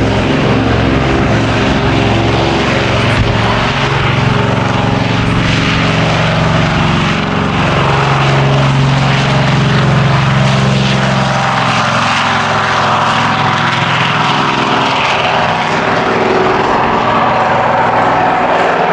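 DHC-4 Caribou's two Pratt & Whitney R-2000 radial piston engines and propellers at takeoff power during its short takeoff, a loud, steady droning note. The deepest part of the note falls away about twelve seconds in.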